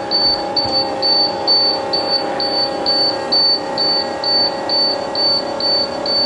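School bus dashboard warning buzzer beeping evenly, high-pitched, about two beeps a second, with the key on and the diesel not yet running. Under it is a steady two-tone electrical hum.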